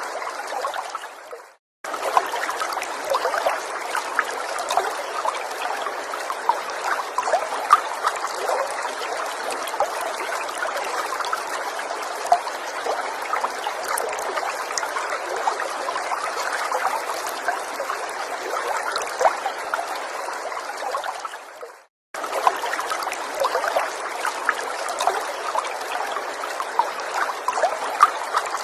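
Small stream trickling, a steady rush of water flecked with many small splashes. The water fades out to a brief silence about a second and a half in and again about twenty-one seconds in, cutting back in abruptly each time.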